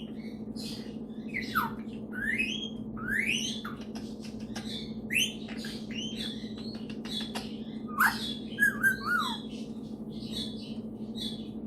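Superb parrot chattering on its own: a busy run of short chirps, squawks and quick rising and falling whistles, busiest about eight to nine seconds in, over a steady low hum.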